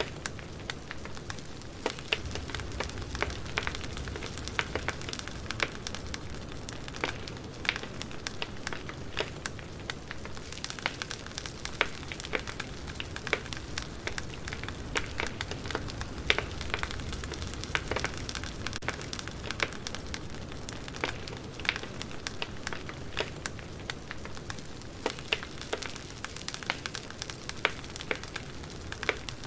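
Campfire crackling: wood popping and snapping in frequent irregular clicks over a low steady rumble from the fire.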